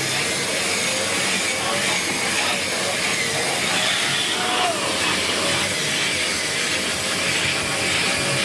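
Dyson Big Ball Animal cylinder vacuum running steadily while cleaning carpeted stairs, its motor note wavering slightly up and down as the tool is worked over the steps.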